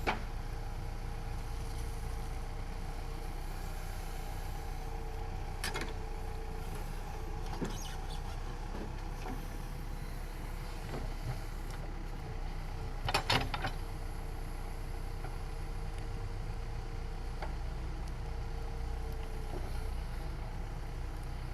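Heavy diesel engine running steadily, with a few short sharp knocks; the loudest comes as a pair about thirteen seconds in.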